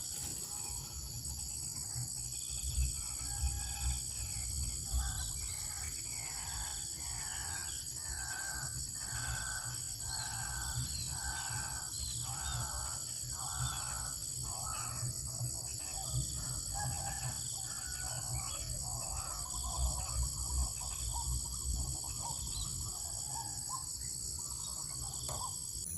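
Insects trilling steadily at a high pitch, with a series of short repeated animal calls, roughly one a second, through the middle of the stretch, over a low rumble.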